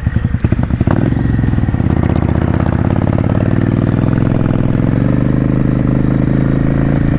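Motorcycle engine running under way as the bike is ridden. Its note changes about a second in, then rises gently and holds steady.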